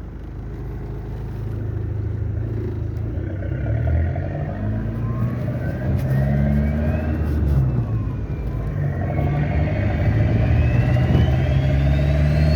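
Turbocharged car engine running with the turbocharger whistling. The whistle comes in about five seconds in and rises in pitch, dips briefly, then climbs steadily higher as the engine builds, over a low engine drone.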